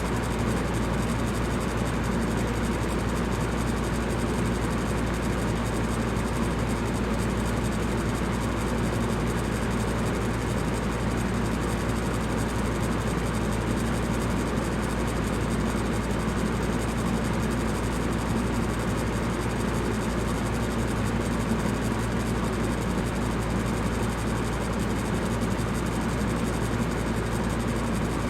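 Electric fan running steadily: a constant whooshing hum, strongest in the low end, that does not change.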